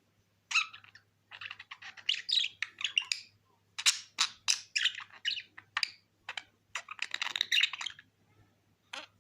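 Pet budgerigar chattering: quick runs of short chirps, clicks and squeaks in several bursts with brief pauses.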